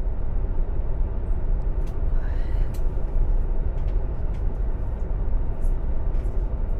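Airliner cabin noise: a steady low rumble of engines and air, with a few faint clicks.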